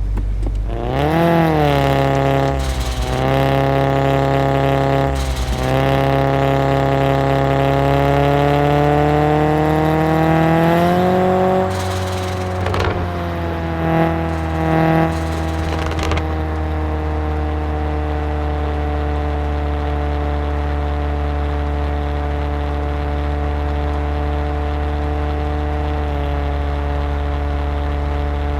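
Straight-piped VW Golf 7 exhaust: the engine revs up and down a few times, climbs steadily for several seconds, drops back with a few short blips, then settles into a steady, even idle for the last dozen seconds.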